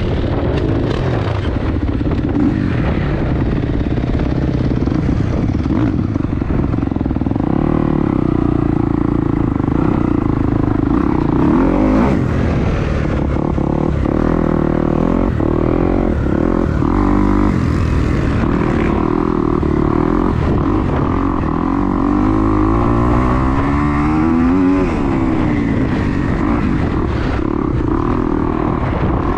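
2022 Kawasaki KX250 four-stroke single-cylinder dirt bike engine running, its revs rising and falling, with a clear climb and drop near the end. Heavy wind buffets the microphone throughout.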